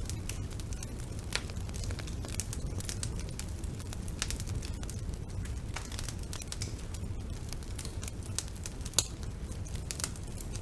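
Wood fire burning in a fireplace: a steady low rumble of the flames with irregular sharp crackles and pops from the burning wood, one louder pop about nine seconds in.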